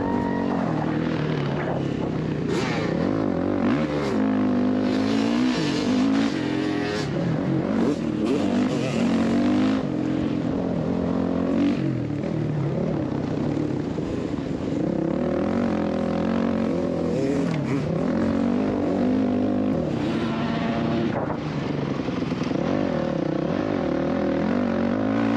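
Motocross dirt bike engine revving up and down over and over as it is ridden, with occasional sharp knocks and rattles.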